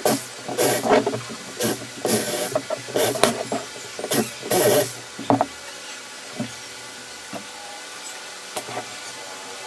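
Hand tool working a wooden cage part in about six hissing strokes over the first five seconds, then a few light clicks.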